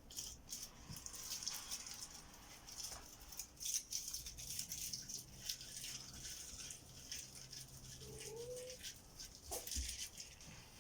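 Cats moving about and playing: a patter of light scratches, taps and rustles, with a short rising call about eight seconds in.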